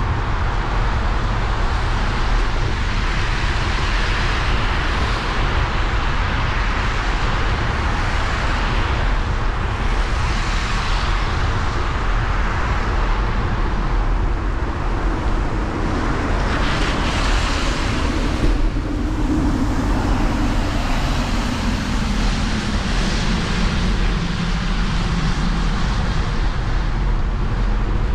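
Bicycle riding on wet paths: a steady hiss of tyres and wind with a low rumble. From about two-thirds of the way through, a passing engine's tone rises and then slides down in pitch.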